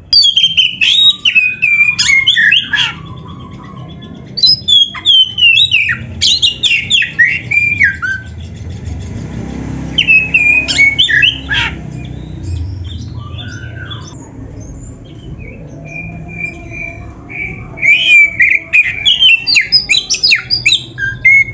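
Oriental magpie-robin (kacer) singing in its loud, full mimicking repertoire: bursts of rapid, varied whistled phrases with sharp slides in pitch. The bursts are separated by short pauses, about four bursts in all.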